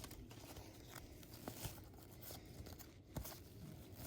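Faint handling of trading cards being flipped through, with a few soft clicks and taps.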